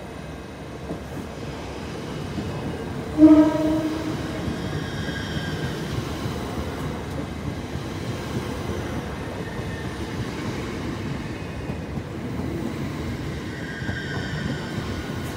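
Two coupled c2c Class 357 Electrostar electric multiple units passing through a station. A short horn blast about three seconds in is the loudest sound, followed by the steady rumble and wheel noise of the coaches rolling by, with a faint high whine at times.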